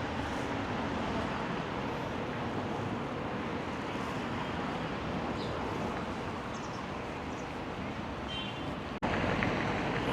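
Steady rush of road traffic on a busy street, with no single vehicle standing out. About nine seconds in the sound breaks off abruptly and picks up again slightly louder.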